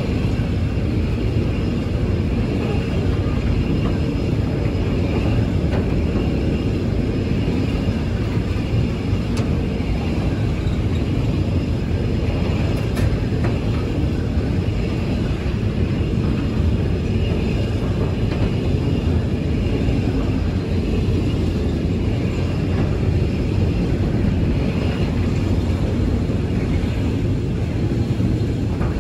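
Long freight train passing close by, a steady, unbroken rumble of wagon wheels on the rails.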